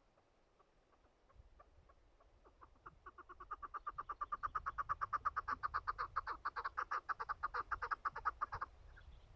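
Chukar partridge calling: a series of clucking chuck notes that start spaced out, speed up into a loud rapid run of about seven a second, and stop abruptly near the end.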